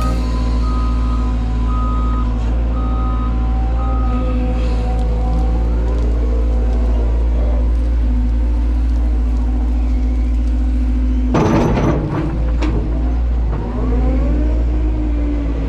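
Excavator engine running steadily, with a warning alarm beeping about once a second for the first four seconds. About eleven seconds in there is a loud, clattering burst of about a second.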